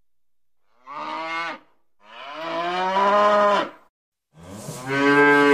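Domestic cows mooing: three moos, a short one about a second in, a longer one from about two seconds, and a louder third starting near the end.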